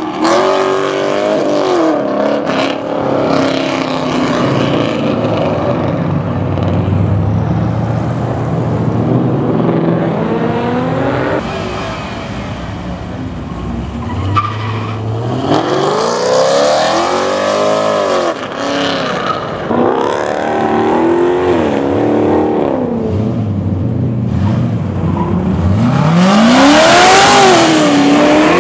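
A string of cars, a Chevrolet Camaro and then a Pontiac G8 among them, pulling away hard one after another. The exhaust note rises and falls in pitch with each rev and run past, loudest about halfway through and again near the end, with some tyre squeal.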